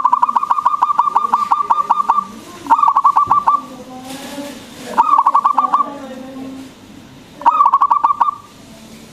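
Zebra dove (perkutut) cooing in rapid trains of clipped notes. A long run of about two seconds comes first, then three shorter bursts of about six notes each, spaced roughly two and a half seconds apart.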